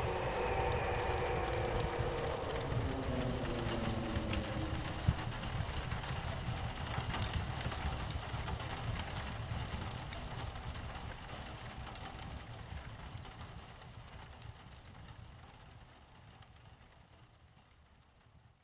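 Steady rain with pattering drops, fading out slowly to near silence by the end. For the first four seconds an eerie, wavering crying wail glides down in pitch over it, a sound effect of something mimicking a crying child. One sharp click about five seconds in.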